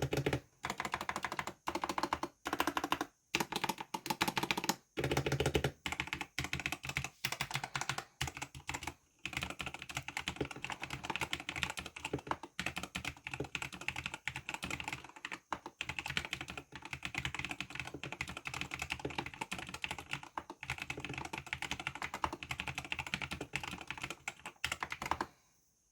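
Typing on a LANGTU LT-84 sandwich-mount mechanical keyboard: rapid keystroke clicks, broken by a few short pauses in the first third, then steady fast typing that stops near the end.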